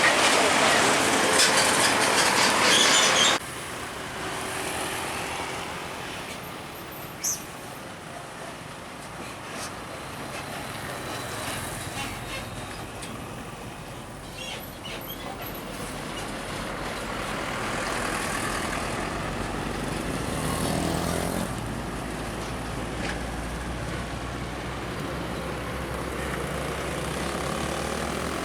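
Trucks passing on a highway. A loud passing noise stops abruptly about three seconds in, giving way to quieter steady traffic, with a low engine rumble building up in the second half.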